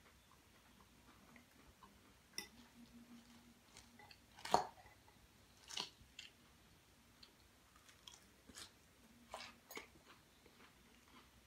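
Close-up chewing of a lettuce salad, with a string of sharp clicks and short scrapes from a metal fork working in the bowl; the loudest click comes a little before halfway.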